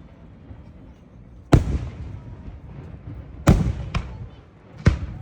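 Fireworks going off: four sharp bangs, about a second and a half in, two close together around three and a half to four seconds in, and one near the end, each followed by a short echoing decay.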